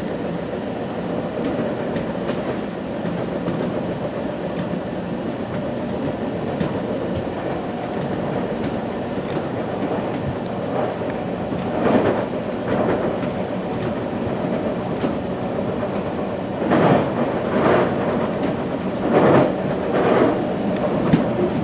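West Coast Express commuter train running along the line, a steady rumble of wheels on rail. About halfway through come several louder clacks in quick groups, as wheels cross rail joints or switches.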